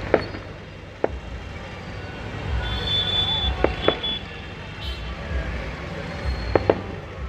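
Fireworks going off: about six sharp bangs, two of them in quick pairs, over a steady low background rumble.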